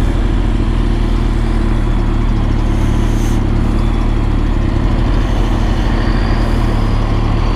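BMW K1200R's inline-four engine idling steadily, an even low engine sound with no revving.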